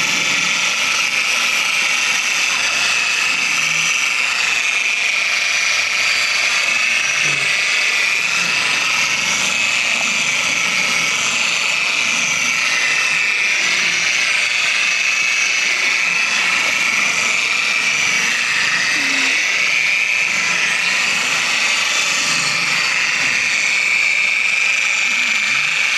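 Electric rotary buffer running continuously, its motor whine wavering slightly in pitch as it is worked, polishing the hauler trailer.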